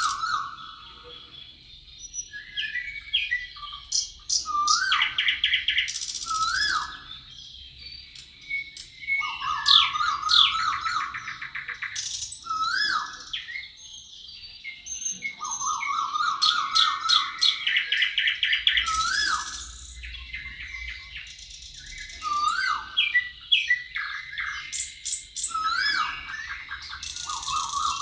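Several forest songbirds singing, with buzzy trills, upward-sweeping whistled notes and rapid high chirps. The same phrases recur every several seconds over a faint steady high tone.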